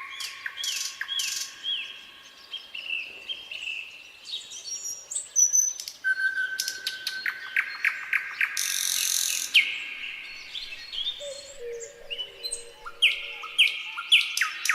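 Nightingale singing in varied phrases: runs of quick down-slurred notes, a fast clicking trill around the middle, and long drawn whistles, some of them low near the end.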